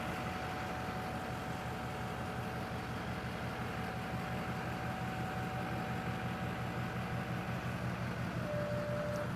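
Chevrolet Duramax diesel pickup engine idling steadily, with a thin steady whine above it that fades out near the end and a brief different tone just after.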